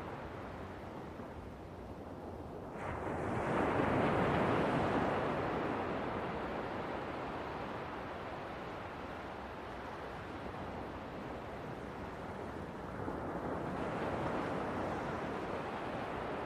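Sea waves breaking on the shore: a surge of surf swells in about three seconds in and slowly washes away, and a second, softer wave comes in near the end.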